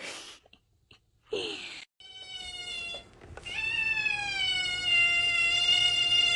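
Cat meowing: two short breathy sounds, then a brief call about two seconds in, then one long, drawn-out meow held steady for about four seconds.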